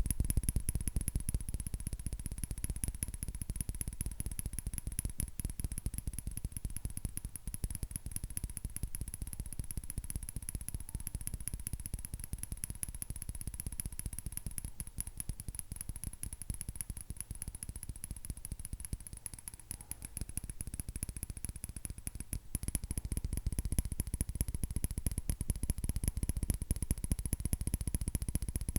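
Fingernails tapping fast and continuously on an object, a dense run of quick clicks. The tapping is heavier at the start, lighter through the middle, and heavier again from about three quarters of the way through.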